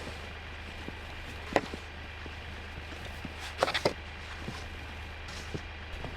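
Snow shovel working packed snow: a short crunch about a second and a half in and a quick cluster of crunches and scrapes a couple of seconds later, over a steady low hum.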